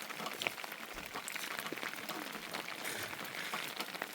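Steady rain, with a dense patter of individual drops hitting a surface.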